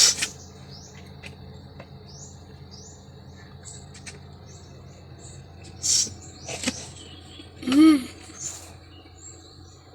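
Small birds chirping in the background, many short high chirps over a quiet backdrop. A brief louder rustle comes about six seconds in, and a short pitched sound just before eight seconds.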